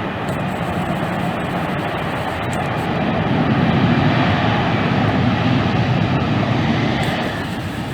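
Airliner's engines passing close by, a steady rushing noise that grows to its loudest about four seconds in and then fades.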